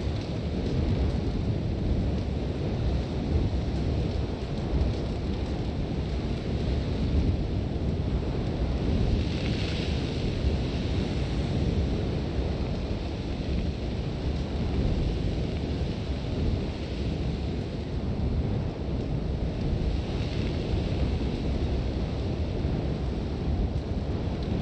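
Sandstorm wind rumbling and buffeting against a tent, with hissing swells of blown sand about ten seconds in and again near twenty seconds.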